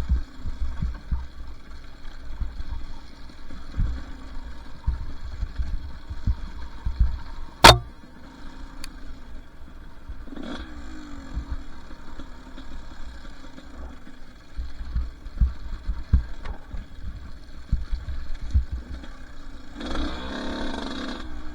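Two-stroke dirt bike engine running at low revs, with frequent low thumps and one sharp knock about eight seconds in. The engine gets louder near the end.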